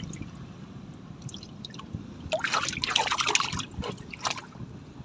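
Water trickling and splashing, with a busier stretch of splashing from about two and a half to four and a half seconds in.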